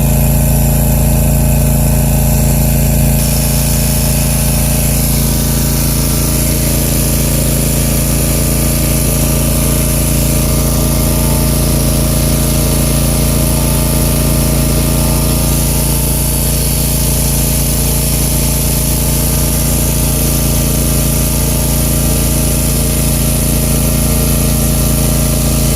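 Country Clipper zero-turn riding mower's engine running steadily under load as it tows a rotary hoe through mud.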